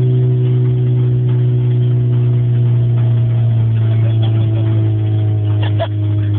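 Fifth-generation Honda Civic engine running steadily with no exhaust fitted, a loud even drone with a few sharp ticks near the end.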